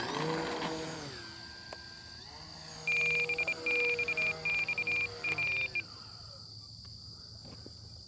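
Electric motor and propeller of an FMS Cessna 182 RC plane whining, its pitch falling in the first second, rising again about two and a half seconds in, holding, then falling away near six seconds. From about three to six seconds a loud, high, pulsing tone sounds in repeated beats over it.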